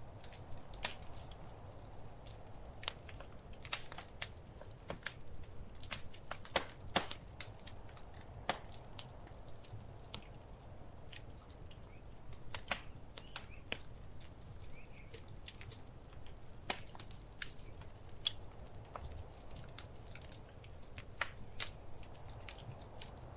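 Wood fire crackling: irregular sharp pops and snaps, several a second at times, over a steady low rumble of the burning fire.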